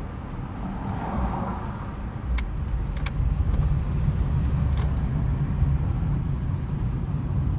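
Renault Zoe electric car on the move: a steady low road-and-tyre rumble with no engine note, growing a little louder a few seconds in. A light regular ticking runs about three times a second, and two sharp clicks come near the middle.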